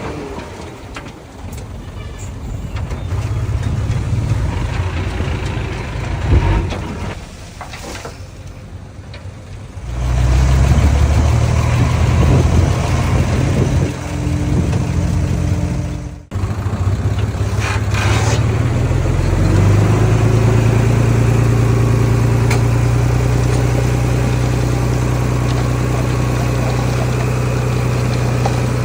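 Heavy diesel engine running, fainter at first and louder with a steady deep hum from about ten seconds in, with a sudden brief drop-out a little past the middle.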